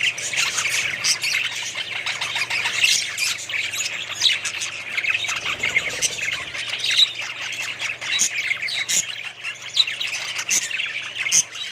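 Many small parrots chattering and squawking together, a dense, continuous din of overlapping short calls, as from a crowded aviary or cage of birds.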